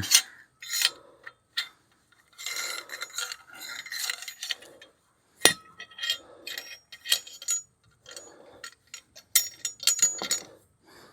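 Cloth wiping BRASSO polish off a stainless steel motorcycle muffler in repeated rubbing strokes, with light metallic clinks and a few sharp knocks, the loudest about five seconds in.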